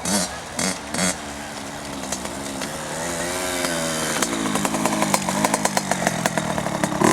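Kawasaki KX60's small two-stroke engine revving up and down as the dirt bike rides the track, growing louder over the last few seconds.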